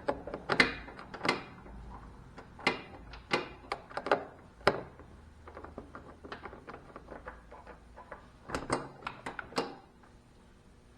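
Irregular sharp metallic clicks and knocks from hand tools and loosened fasteners being handled while the lap-bar linkage of a zero-turn mower is taken apart. There are clusters of louder knocks near the start and again about two-thirds of the way through, with lighter ticks between them.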